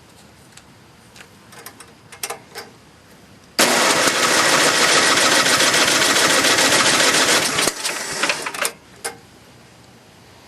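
John Deere 1026 snowblower's 10-horsepower engine being spun by its starter for about four seconds in one fast, even cranking burst that starts and stops abruptly, without the engine firing: a no-start that the owner puts down to fuel not getting through. A few light clicks come before it.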